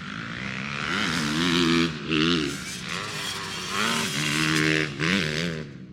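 Dirt bike engine revving, its pitch rising and falling several times as the throttle opens and closes, loudest about two seconds in and again near five seconds.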